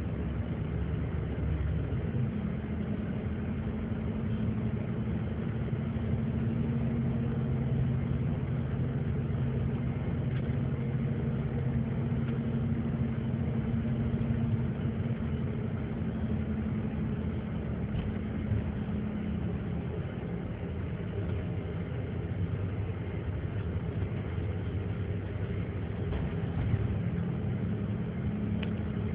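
Vehicle engine running while driving, with tyre and road noise. The engine note drops a little about two-thirds through and rises again near the end.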